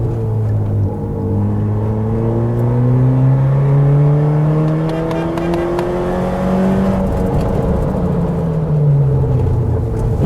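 Car engine pulling steadily in gear, its revs rising slowly for about seven seconds, then easing off and dropping over the next couple of seconds before it runs on at lower revs.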